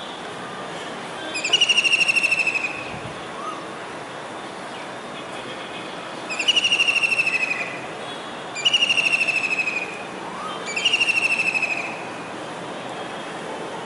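Kingfisher calling: four rapid chattering trills, each about a second and a half long and falling slightly in pitch, with a few seconds between them.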